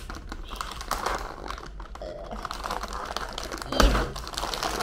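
Plastic snack bag of Kuai Kuai crinkling as it is handled and torn open, with a sharp louder rip or pop a little under four seconds in.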